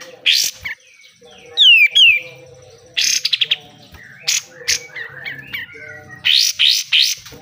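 Kapas tembak bulbul singing fierce, rapid bursts of song (besetan): harsh, dense runs of high notes mixed with quick downward-slurred whistles, in several bursts with short pauses between. A faint steady hum lies under it.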